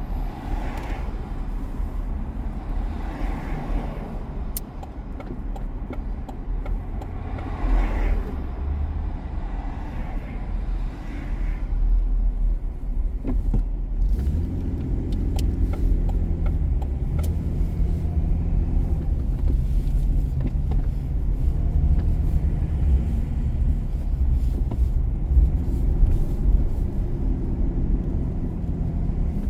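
Car driving on city streets: a steady low road rumble. From about halfway in, a steady engine hum joins it, its pitch stepping up and down.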